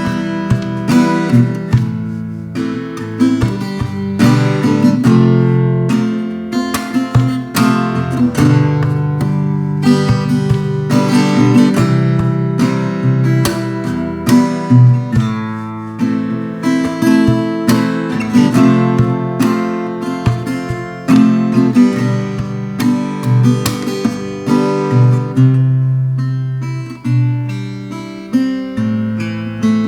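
Veelah Mini Camper R mini acoustic guitar being played solo, strummed chords mixed with picked notes, recorded live without sound editing.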